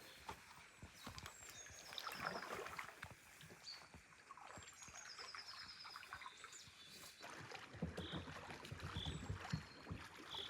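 Kayak paddles dipping and splashing in the river, with songbirds chirping and trilling over it.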